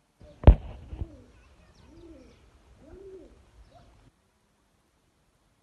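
A sharp knock about half a second in and a fainter one soon after, then a pigeon cooing: three low coos, each rising and falling, about a second apart. The sound cuts off suddenly after about four seconds.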